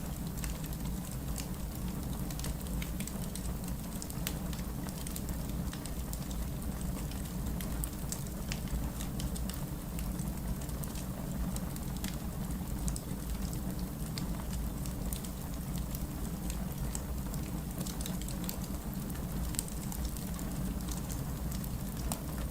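Steady rain mixed with the crackling of a fireplace, small scattered pops over a continuous low rush of rainfall.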